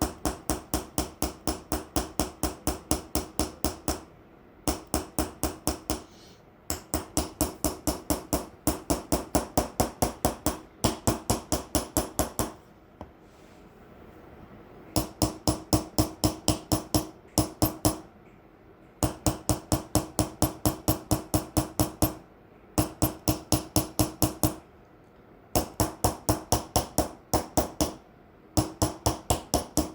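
Small hammer tapping a chisel in Persian hand engraving (ghalamzani) of a metal plate: quick, even taps at about four to five a second in runs of a few seconds with short pauses between, each tap ringing on the metal.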